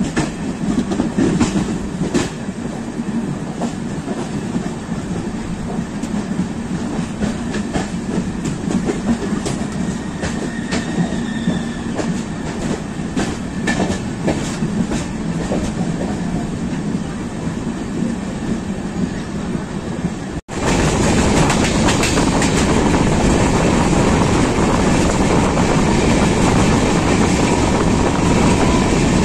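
Passenger train running at speed, heard from an open door of a moving coach while another train runs alongside on the next track: a steady rolling rumble with wheels clicking over rail joints. About two-thirds of the way through, a sudden cut leads to a louder, steadier rush of the train running on open track.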